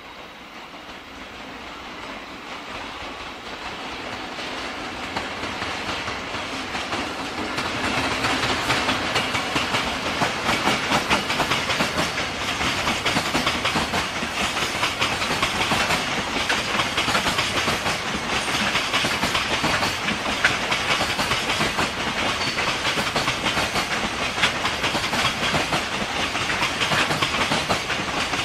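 Freight train wheels clattering over rail joints as a container train rolls past. The clatter builds over the first eight seconds or so as the electric locomotive draws near, then holds steady while the container wagons pass.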